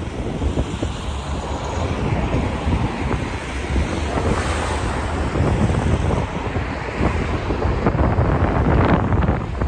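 Wind buffeting the microphone: a loud, gusting rumble.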